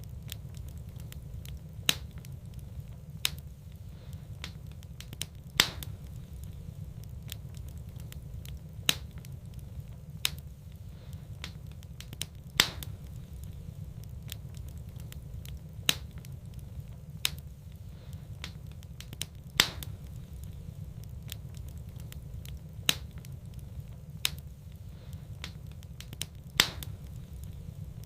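Wood fire burning in a fireplace: sharp, irregular crackles and pops, about one every one to three seconds, over a steady low rumble.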